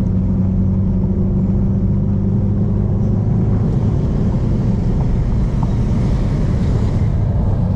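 Car engine running steadily at low revs, a low, even drone with no revving.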